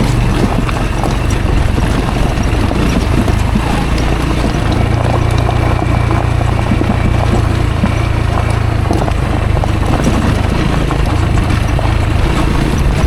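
Rieju Aventura 125's single-cylinder engine running steadily at low revs on a rough dirt track, with a continuous clatter of short knocks and rattles over it.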